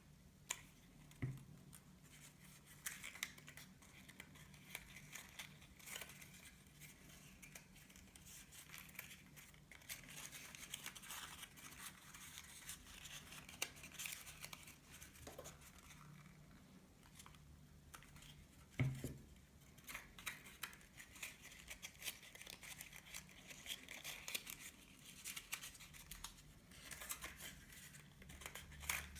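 Paper being handled and folded, faint rustling and creasing with snips of paper scissors. Two louder soft thumps, about a second in and about two-thirds of the way through.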